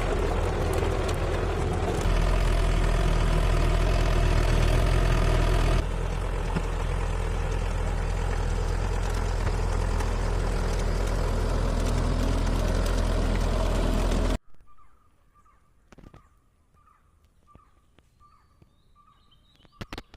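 Tractor engine running steadily, its level stepping up about 2 seconds in and down again near 6 seconds, then cutting off suddenly about 14 seconds in. After that it is quiet but for a faint chirping call repeated about twice a second and a few clicks at the end.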